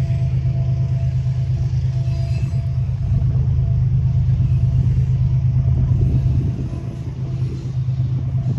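Long freight train of wagons rolling past, a steady low rumble with a faint thin ringing tone above it. The rumble eases slightly about six and a half seconds in.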